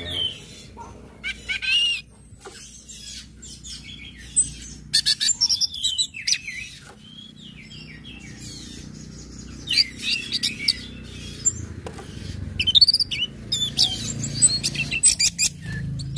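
Orange-headed thrush (anis merah) giving bursts of rapid high chirping and ticking calls, its 'ngecit, ngecip' calls, several times over. Each burst lasts about a second.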